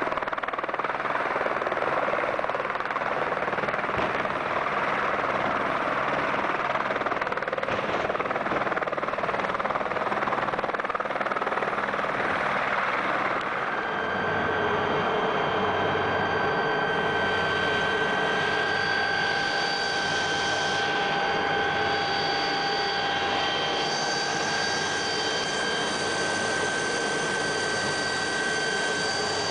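Helicopter with its rotor and turbine engine running, a dense steady noise. About halfway through it changes to a steady high turbine whine over a regular low beat of the rotor blades.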